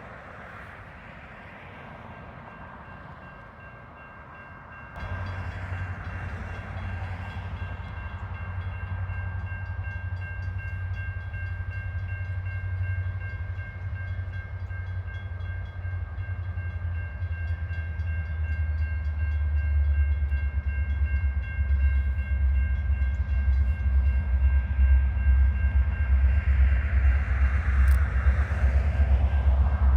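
CN freight train led by EMD diesel locomotives approaching. The deep engine rumble starts suddenly about five seconds in and grows steadily louder, with several steady high tones held above it.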